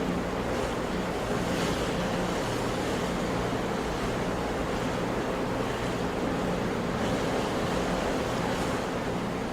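Sea surf washing steadily, an even rushing of waves with no single breaker standing out.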